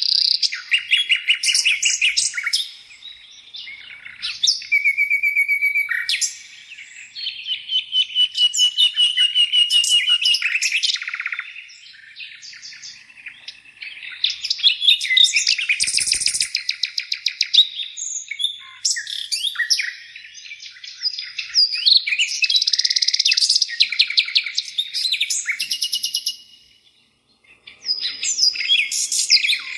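Songbirds singing: rapid trills and repeated chirps and whistles in overlapping phrases, with brief lulls between them.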